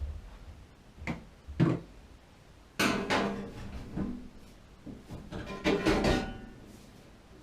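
Two sharp knocks about half a second apart, then two bouts of clattering with a faint metallic ring, as hard objects are handled and set down.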